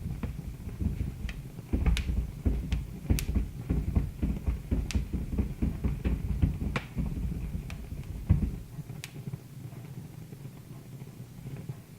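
Wood fire crackling, with irregular sharp pops over a low rumble that dies down about eight and a half seconds in.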